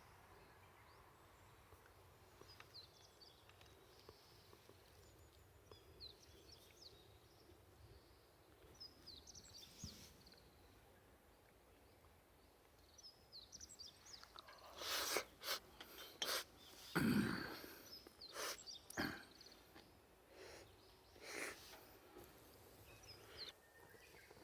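Quiet outdoor ambience with faint, short bird-like chirps, then a run of sharp crackles and rustling noises in the second half.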